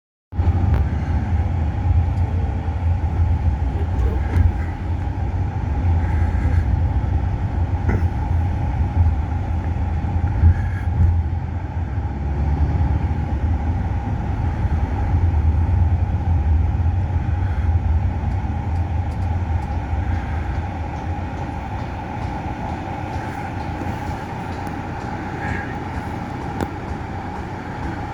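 A vehicle's steady low rumble with a constant hum and scattered light clicks and rattles; the rumble eases off about twenty seconds in.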